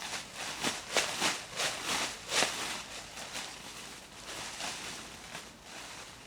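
Crinkly rustling of a plastic emergency sleeping bag being unpacked and handled, a quick irregular run of rustles that thins out towards the end.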